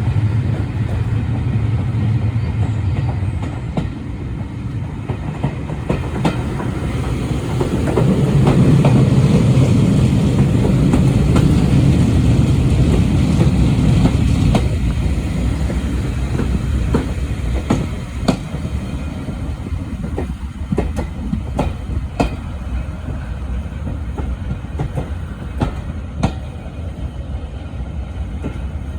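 Heritage passenger train running along the track, heard from on board: a steady low rumble from the wheels and coach that swells in the middle, then many sharp clicks and knocks as the wheels run over the rail joints.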